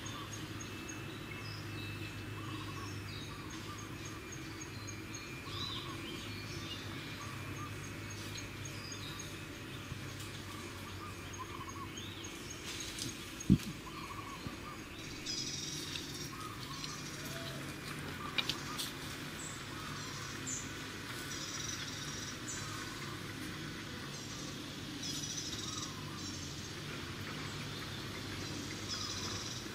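Outdoor ambience: scattered short bird chirps over a steady low hum, with one sharp knock about halfway through and a few fainter clicks shortly after.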